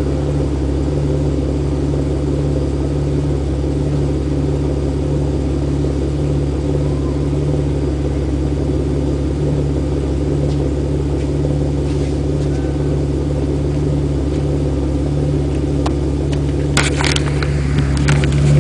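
1991 BMW 850i's V12 exhaust idling steadily, a deep even rumble with no revving. A few brief clicks near the end.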